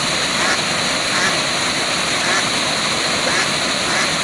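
A waterfall's water rushing steadily. Faint short sounds recur about once a second over it.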